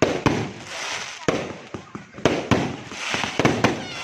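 Fireworks going off in a rapid, uneven string of sharp bangs, each followed by a short crackling tail, coming thickest near the end.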